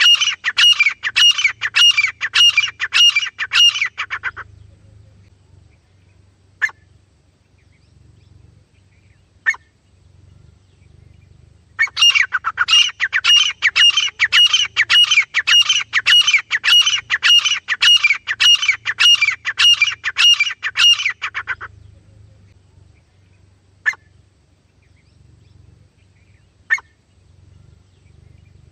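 A teetar (francolin) calling. It gives two long runs of fast, repeated shrill notes, with a few single short notes in the pauses between them.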